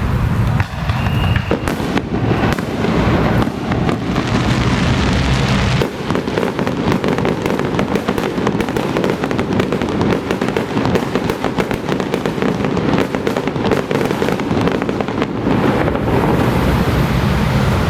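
Firecrackers crackling in a rapid, dense burst that begins about two seconds in and thins out near the end, over a steady low rumble.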